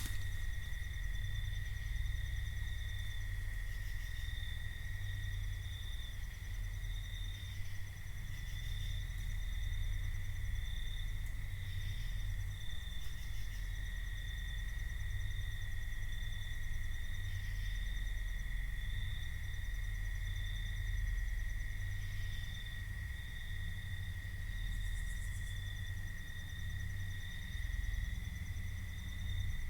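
Night insects trilling in a steady chorus: one even high-pitched trill with a fainter higher one above it. A steady low rumble runs underneath.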